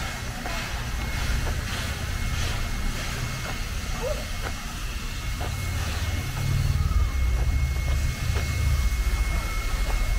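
Steam-hauled train of heritage carriages behind NSWGR 59-class locomotive 5917 pulling away along the platform: a steady low rumble of the carriages rolling on the rails with scattered clicks, louder from about six seconds in.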